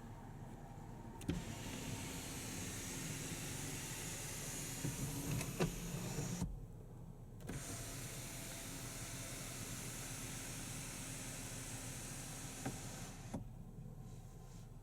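Land Rover Discovery's electric power window motor running twice, about five seconds each time, with a short pause between. Each run starts and stops with a click, and a steady hum and whirr fills the time in between, typical of a window travelling one way and then back.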